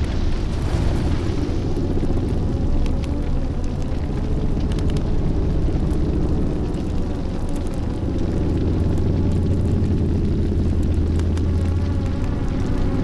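A deep, continuous rumbling sound effect with scattered sharp crackles through it.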